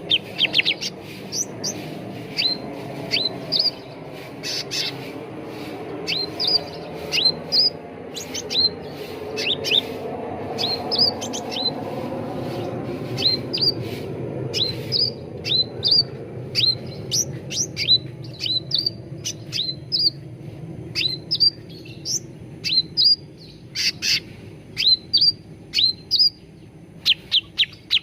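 Cucak ranting songbird calling: a run of short, sharp, high chirps, often in quick pairs, repeated through the whole stretch, over a steady low background rumble.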